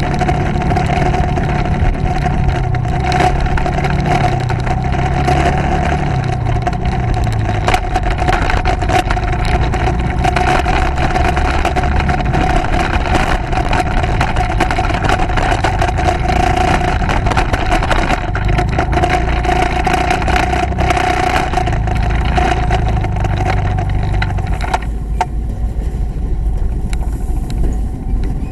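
Motorcycle running on the road, its engine note rising and falling under a loud, steady rush of wind and road noise. The noise eases a few seconds before the end.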